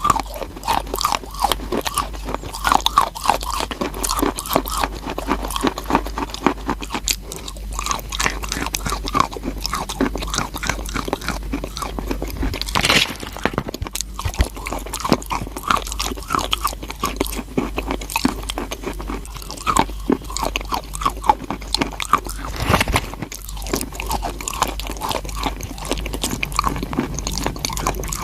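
Close-up crunching and chewing of crunchy chalk: repeated sharp, irregular bites and grinding crunches in the mouth.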